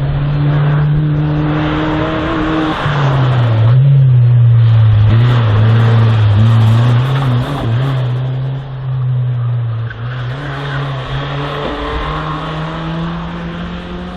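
Slalom race car engine running hard under load. Its pitch holds steady at first, drops and wavers a few seconds in, then climbs slowly near the end as the car works through the course.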